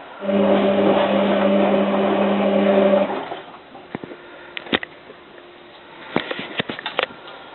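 Hotpoint 9534A washing machine's water inlet valve opening for about three seconds: a steady buzzing hum over rushing water, then cutting off sharply. Scattered light clicks and taps from the machine follow, thickening near the end.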